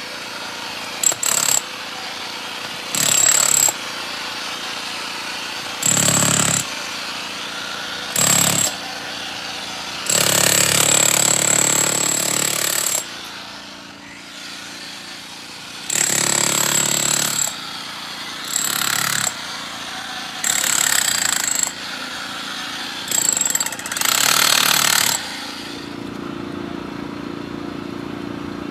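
Jackhammer run in about ten short bursts of half a second to three seconds each, with pauses between, breaking ground to reach a leaking water line. A steady engine-like hum comes in near the end.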